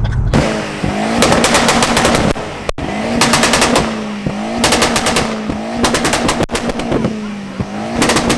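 A tuned car's engine revved hard again and again, about once every second and a half, with a rapid rattle of exhaust pops and bangs as each rev drops back.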